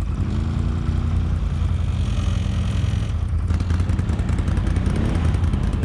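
ATV engines running under throttle, their pitch rising as the throttle opens near the start and again near the end, over a deep steady rumble.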